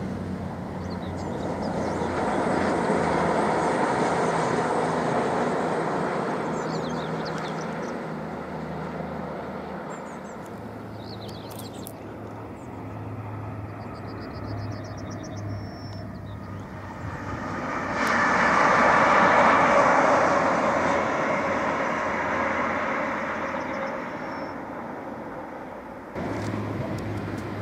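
A three-car passenger train passing at speed with a rushing roar that swells and then fades into the distance. A second, louder swell of rushing noise comes about 18 seconds in, with birds chirping.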